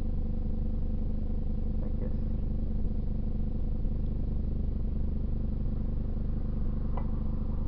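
A steady machine hum holds one even pitch throughout, with a few faint light knocks.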